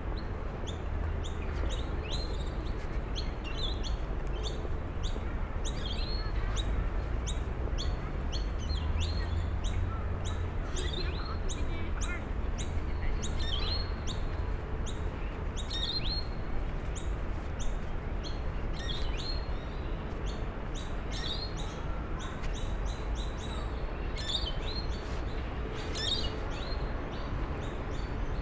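Birds chirping in the park trees: many short, high, quickly falling chirps come every second or so. Under them runs a steady low rumble.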